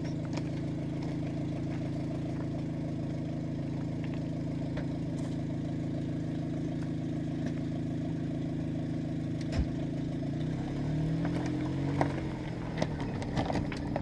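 Car engine idling steadily. About ten seconds in, its pitch shifts as it moves off, with a few sharp knocks near the end.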